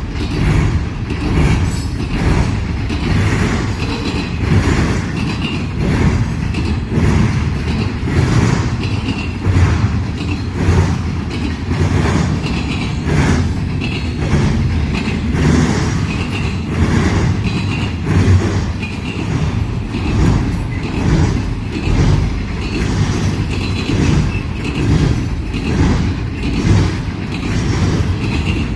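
Freight train cars rolling past, their wheels clacking over the track in a steady repeating rhythm over a low rumble.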